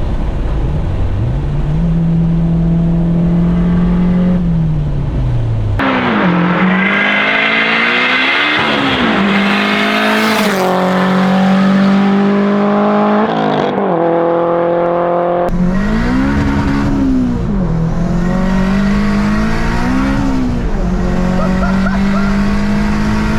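Turbocharged Honda K20A2 four-cylinder in an Acura RSX pulling hard under full throttle, the revs climbing and dropping again and again as it shifts up through the gears. The sound changes abruptly twice, about six seconds in and again past halfway.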